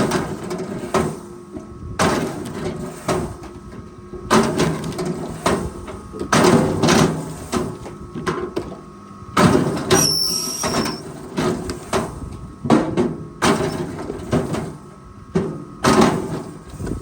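Forestry machine at work: an engine running under a string of loud clanks and knocks every second or two, with a brief high squeal about ten seconds in.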